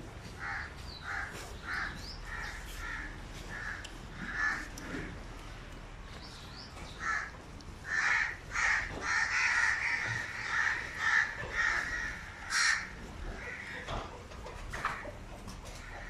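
Birds calling: a run of short repeated calls, about two a second, then a louder, denser stretch of calls in the second half, with a sharp click near the end of it.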